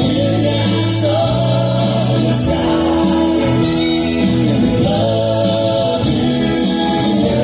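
Live soft-rock band playing, with several voices singing held notes together over guitar and bass.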